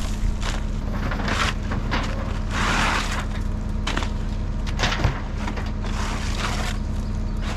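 Shingles and debris being thrown off a truck, a string of irregular crashing, scraping noises, the longest about halfway, over a steady engine drone.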